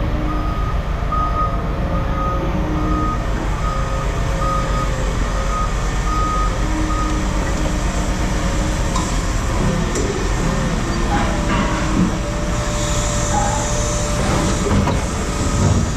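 Vehicle reversing alarm beeping in a steady on-off pattern, roughly once a second, over the constant low running of a heavy engine; the beeping stops about halfway through while the engine keeps running.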